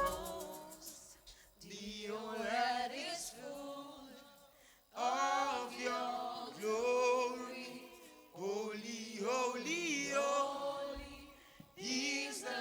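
Unaccompanied voices singing a slow worship chorus in short phrases, with brief breaks between them.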